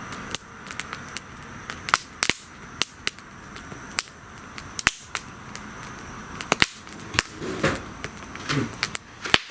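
Wood bonfire crackling, with many sharp, irregular pops.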